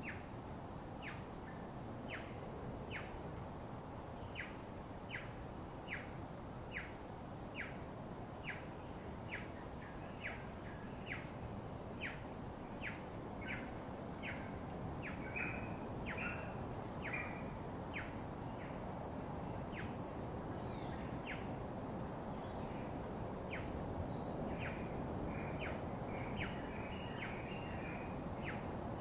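Birds calling: one bird repeats a short, sharp falling chirp a little more often than once a second, while other birds chip in with quicker chirps in the middle and near the end. Underneath runs a steady low rush and a thin, steady high tone.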